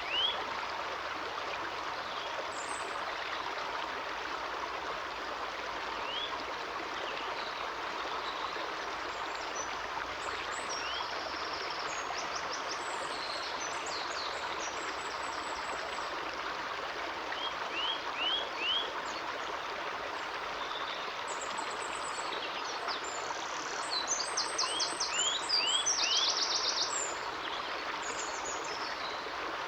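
A stream running steadily, with several songbirds calling over it: runs of four or five quick rising notes now and then, and higher chirps and short trills, busiest in the second half.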